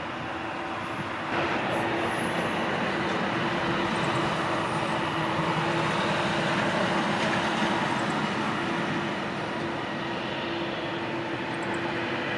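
Four-engine Airbus A340-300 jetliner taking off, its CFM56 turbofans giving a steady rushing jet noise with a low hum. The noise jumps louder about a second in and stays up.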